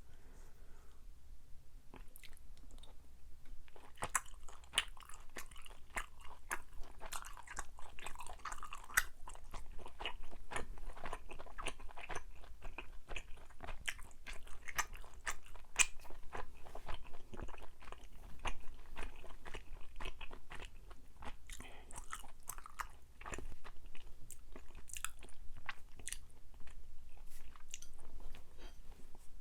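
A person chewing soft, sticky Korean rice cakes close to the microphone: a dense run of wet mouth clicks and smacks with occasional bites.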